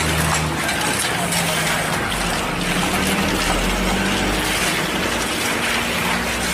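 Diesel engine of a HINO cement mixer truck running steadily under a constant rushing noise, its low note shifting slightly now and then.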